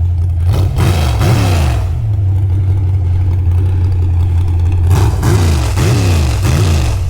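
Truck engine revved up and down in two bursts of several quick revs, over a steady low engine drone.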